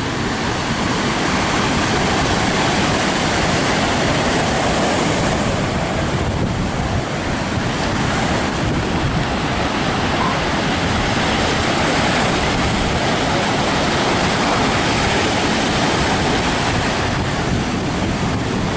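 Rough sea breaking on a beach in strong wind, a steady loud rush of surf with wind buffeting the microphone.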